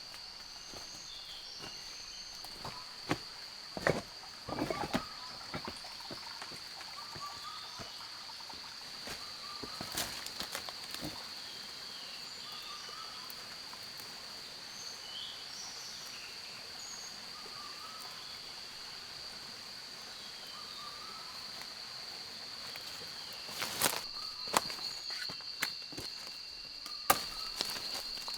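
Rainforest ambience: a steady high-pitched insect drone with scattered short chirps from other animals. A few sharp clicks and knocks break in, mostly a few seconds in and again near the end.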